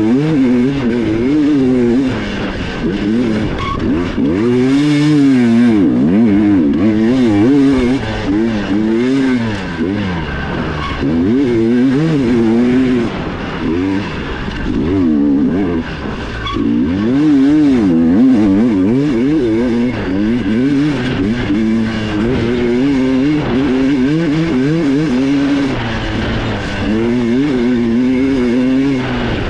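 Dirt bike engine heard on board, revving up and down over and over as the throttle is opened and closed through the trail, the pitch swinging every second or two.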